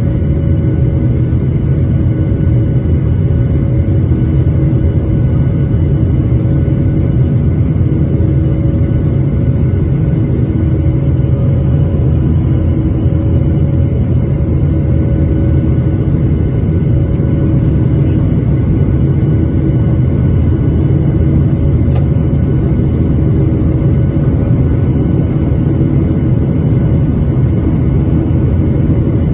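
Cabin noise inside a Boeing 737-800: a steady, loud low rumble from its CFM56 turbofan engines with several faint, steady whining tones above it, holding the same level throughout.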